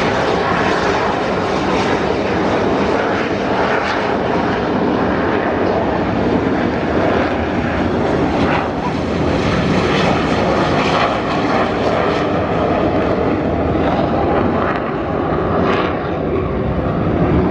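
Fixed-wing aircraft engine noise, loud and steady, with no clear rise or fall.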